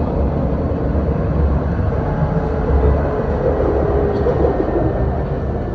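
Dubai Tram running, a steady low rumble with a faint whine that swells in the middle.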